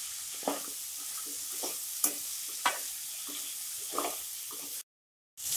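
Chopped vegetables sizzling in hot oil in a kadhai while being stirred with a spatula, being sautéed until they lose their raw taste. A steady sizzle runs under scattered sharp scrapes and knocks of the spatula against the pan, and the sound cuts out completely for about half a second near the end.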